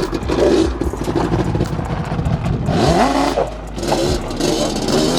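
Vehicle engines running and revving, with a rise in engine pitch about halfway through.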